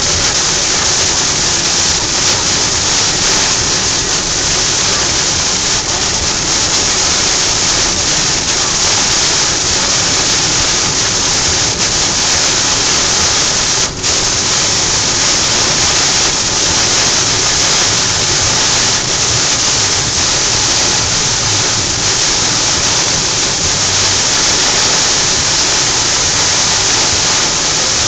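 Torrential rain drumming on a car's roof and windscreen, heard from inside the moving car as a loud, dense, steady hiss. There is a momentary dip about halfway through.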